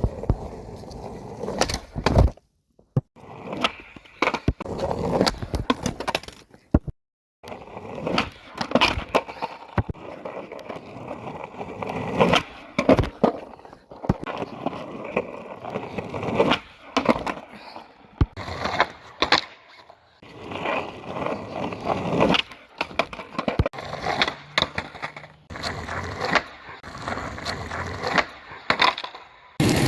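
Skateboard wheels rolling, with many sharp clacks and knocks from the board popping and landing, and the sound cutting off abruptly twice.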